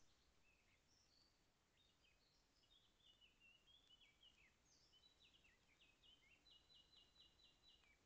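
Faint songbird song: a quick jumble of varied short high notes, ending near the end in a run of about seven evenly repeated notes.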